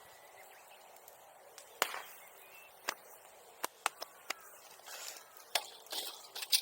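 Bonfire burning, with a crackle and a series of sharp, irregular pops starting about two seconds in, like small firecracker snaps from the burning material.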